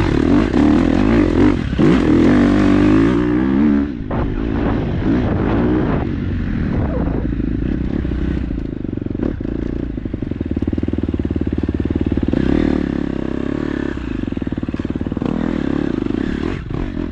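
KTM 250 dirt bike engine revving up and down in the first few seconds, then running at a steadier, lower pitch, with some clattering and scraping.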